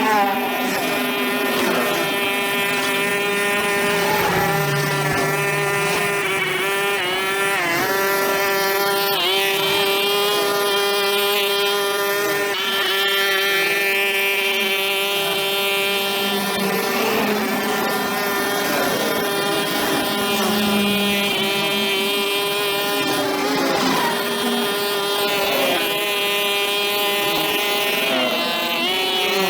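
Small two-stroke engine of a brush cutter running at high speed, its pitch dipping and recovering several times.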